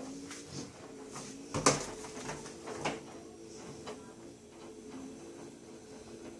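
LG Titan 16 kg washing machine spinning: a steady motor hum with irregular knocks and clatters, the loudest about a second and a half in. This is the abnormal noise the machine makes on its spin cycle, a fault.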